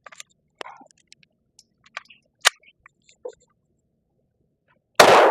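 Small clicks of a Glock G44 .22 LR pistol being handled, with a sharper click about two and a half seconds in. Near the end comes a single loud shot with a short echo trailing off.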